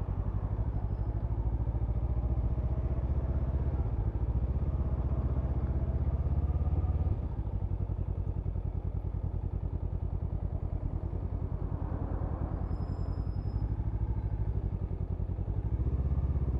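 Honda CMX500 Rebel's parallel-twin engine running steadily while under way, a low pulsing engine note; it eases a little about seven seconds in.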